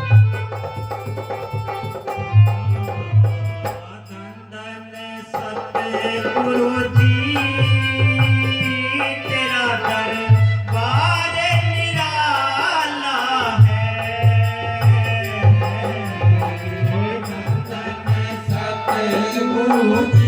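A devotional shabad sung to hand-drum and instrumental accompaniment. The drum plays a steady rhythm, drops out briefly about four seconds in, and the singing comes in about six seconds in.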